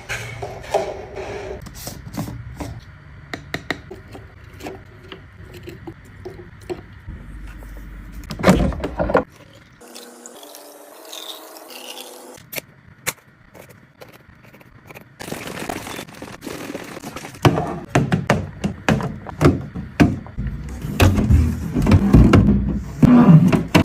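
Food containers and packaging being handled and set down: a run of knocks, clicks, rubbing and scrapes, sparser and quieter in the middle and denser and louder near the end.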